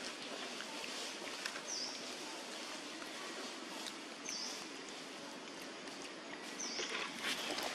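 A bird giving a short, high, falling chirp three times, about two and a half seconds apart, over a steady outdoor background hiss.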